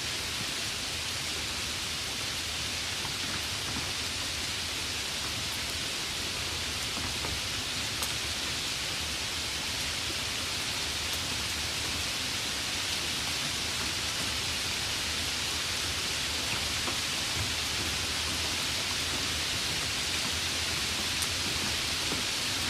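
Steady rain falling, an even, dense hiss with a few faint sharper drop ticks.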